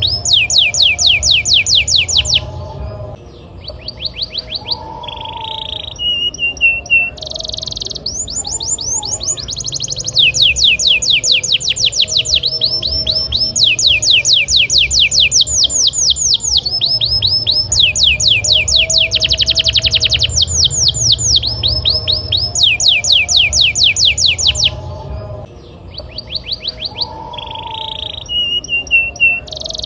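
Domestic canary singing: long, fast trills of rapidly repeated downward-sweeping high notes, in phrases broken by brief pauses and a few short held notes.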